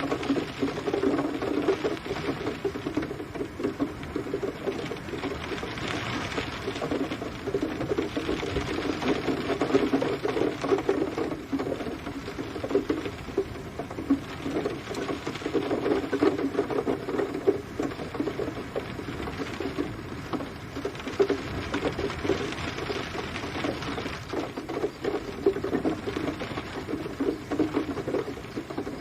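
Steady rain pattering, a dense crackle of countless small drops that swells and eases gently every few seconds.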